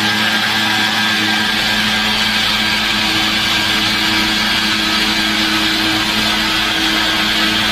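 Drillboy vertical CNC machine's spindle running steadily while milling a recessed edge-handle groove into a panel, a loud, even machine whine. A low hum joins about a second and a half in.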